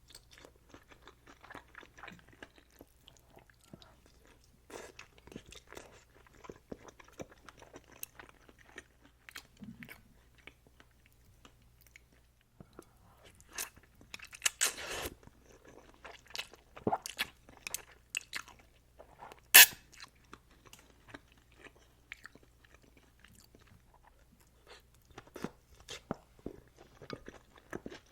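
Close-miked eating sounds of a person eating Shin ramyun noodles with eggs: steady chewing and biting with many small mouth clicks, a denser burst about 14 seconds in and one sharp louder click near 20 seconds in.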